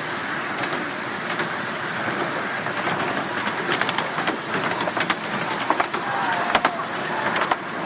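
Miniature railway train running along the track: a steady rolling rumble with irregular clicks and clacks from the wheels on the rails.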